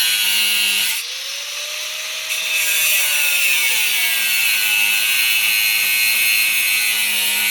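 Angle grinder cutting with a steady, high-pitched hiss. It eases off slightly about a second in and bites back in about two and a half seconds in.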